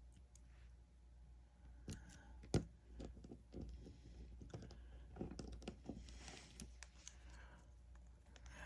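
Small plastic parts of a vintage G.I. Joe action figure clicking and rattling as they are handled and fitted together, with one sharp click about two and a half seconds in.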